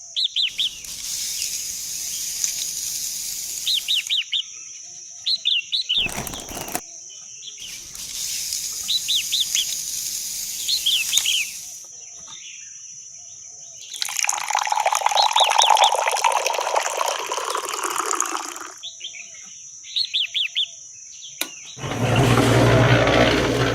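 Small birds chirping in short, repeated bursts over a steady high hiss, with stretches of rushing, water-like noise; the longest comes about two-thirds of the way in and slowly deepens.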